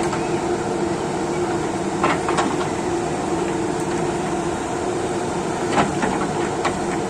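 Diesel engine of a JCB 3DX backhoe loader running at a steady speed, with a few short clicks or knocks over it.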